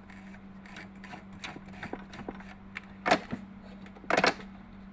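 Clicks and knocks of hands working the open Janome 393 sewing machine's mechanism, with louder knocks about three seconds in and again about four seconds in.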